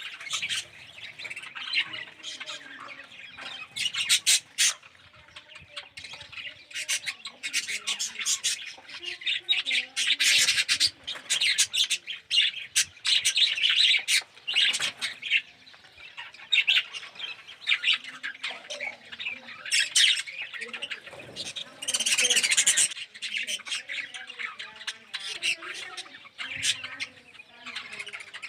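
A flock of budgerigars chattering: a dense, unbroken stream of short chirps and squawks from many birds at once.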